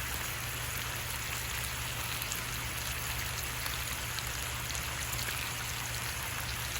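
Chicken frying in a pan: a steady sizzle with small scattered crackles, over a low steady hum.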